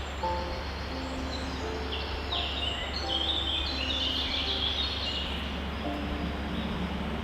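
Birds chirping over a steady background of noise and low hum, with the chirping busiest in the middle of the stretch.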